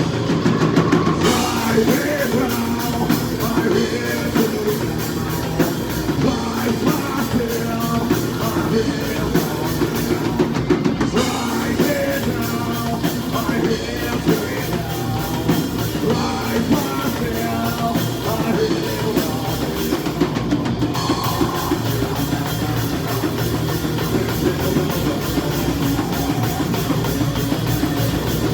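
A live metalcore band playing loud and steady: a pounding drum kit and heavy guitars, with singing over them.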